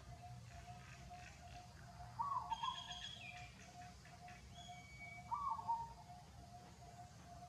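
Birds calling: a short call repeated about every three seconds over a steady run of soft, evenly pulsed notes, with a few brief higher chirps in the middle.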